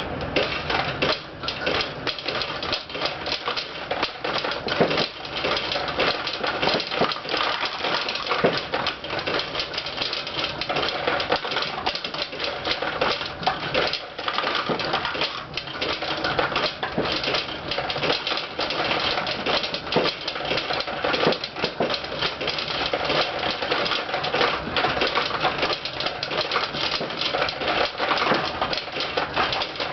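Pachinko machine in play: steel balls fire in quick succession and clatter down through the pins, a dense, steady rattle of small metal clicks.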